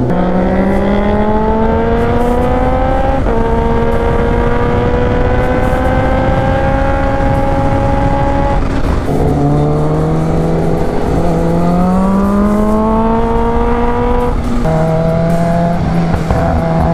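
Kawasaki Ninja H2's supercharged inline-four pulling under load at cruising revs, heard from the bike over a haze of wind and road noise. The engine note climbs slowly in pitch and changes step abruptly a few times, at gear changes.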